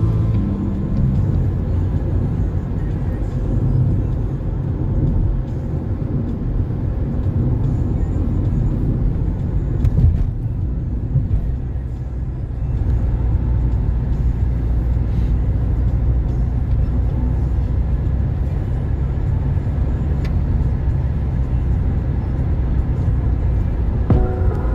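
Steady low rumble of a moving vehicle heard from inside, with a single knock about ten seconds in.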